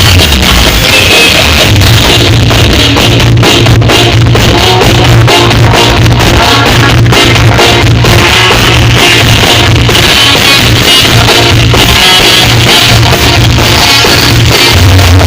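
Loud music with a heavy beat and strong bass played through a large carnival sound system, distorted at near full volume.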